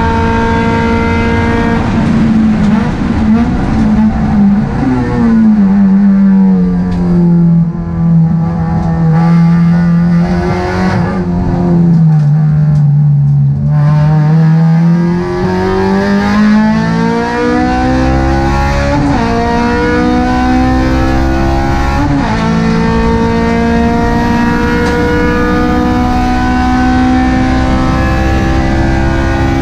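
Honda Civic Type R FD2's K20A four-cylinder engine at racing pace. Its revs fall under braking in the first few seconds, hold lower, then dip to their lowest about halfway through. It then climbs hard with a couple of quick upshifts and holds high revs near the end.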